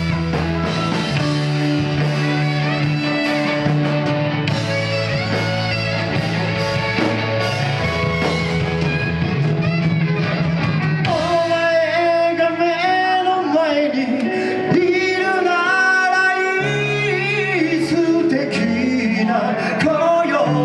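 Live rock band playing: bass, drums and guitar with singing, the melody line coming forward about halfway through.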